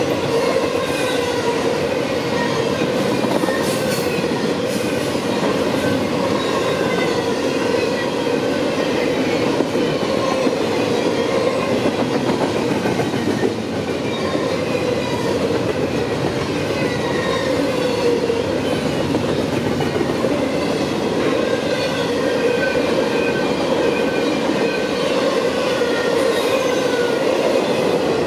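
Double-stack intermodal freight train's container well cars rolling steadily past: a continuous rumble of steel wheels on rail with clattering wheels and scattered short high-pitched wheel squeals.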